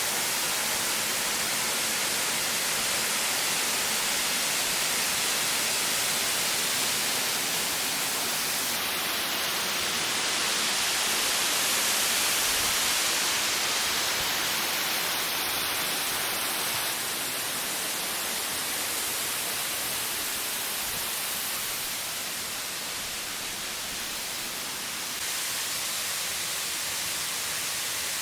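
Waterfall rushing: a steady, hissy roar of falling water. The level shifts slightly in a couple of places.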